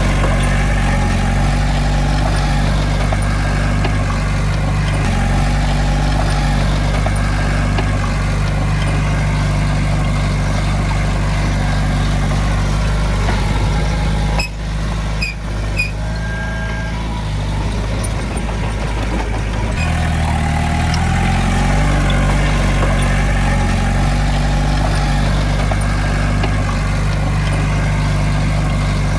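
Heavy diesel engine of earthmoving machinery running under load, its pitch shifting a few times. About halfway through it briefly drops, with a few clicks and a short high squeal.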